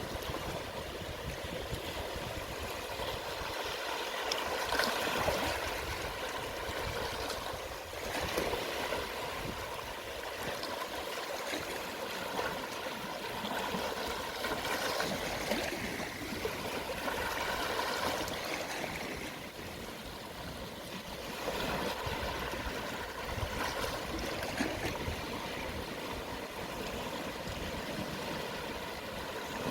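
Gentle sea waves at low tide washing onto the shore: a steady wash of moving water that swells every few seconds as each small wave comes in.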